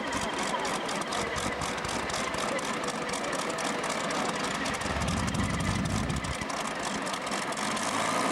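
Large engine idling with a steady, rhythmic beat. A deeper rumble swells for about a second and a half, around five seconds in.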